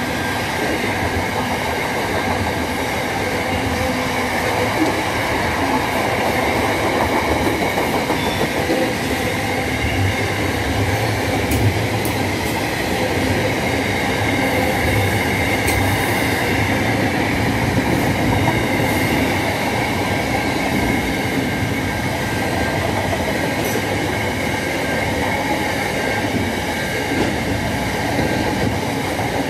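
Container freight train passing close by at speed: a steady, unbroken rush of wagon and wheel noise on the rails, with a few sharp clicks.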